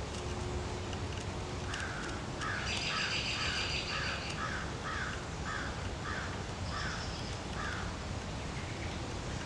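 A bird calling over and over in a fast series, about two calls a second, for about six seconds, with another bird chirping briefly in the middle, over a steady outdoor background noise.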